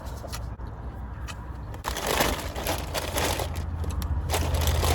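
Crinkling, crunching handling noise close to the microphone, in bursts starting about two seconds in and again near the end, over a steady low hum.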